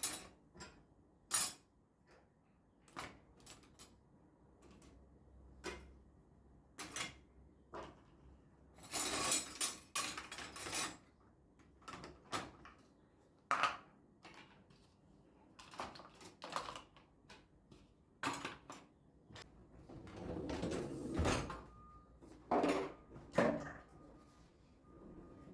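Household items being handled and put away: scattered clicks, knocks and light clatters, with two longer stretches of rustling or scraping. A faint steady high tone comes in near the end.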